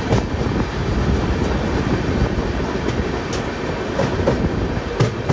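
Indian Railways passenger train running, heard from inside the coach: a steady rumble with the wheels clattering over rail joints and a few sharp knocks.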